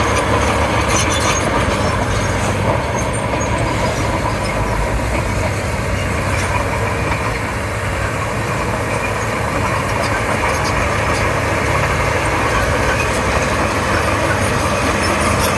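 Komatsu D31P crawler bulldozer's diesel engine running steadily while working, with scattered clanks and clicks from the machine.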